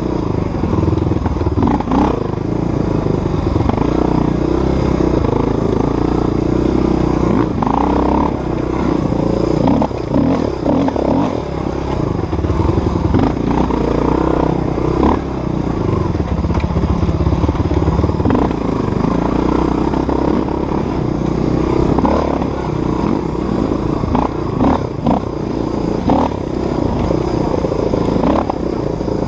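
Dirt bike engine running continuously while riding a trail, its pitch rising and falling with the throttle, mixed with frequent clattering knocks.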